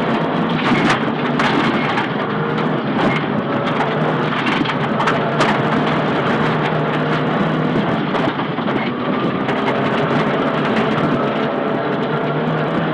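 Nissan Silvia S15 rally car's engine heard from inside the cabin, pulling steadily at speed. Loud road noise and frequent sharp clicks of loose stones striking the underbody run under it.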